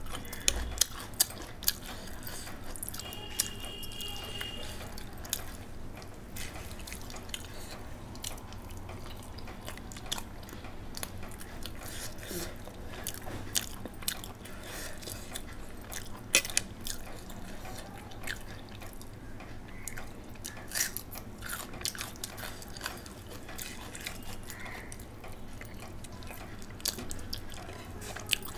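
A person chewing rice and boiled egg eaten by hand, with irregular wet mouth clicks and smacks.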